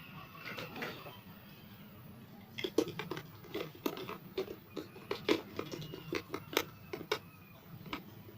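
A run of irregular light clicks and knocks, several a second, starting a few seconds in: objects being handled.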